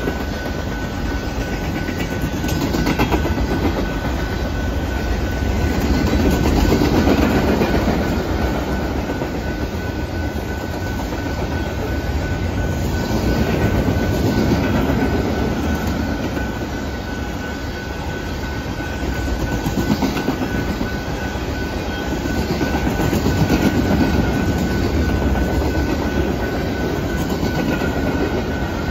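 Canadian Pacific manifest freight train's cars rolling past: a steady rumble and clickety-clack of steel wheels on the rails, swelling and easing every several seconds, with a thin steady high tone running through it.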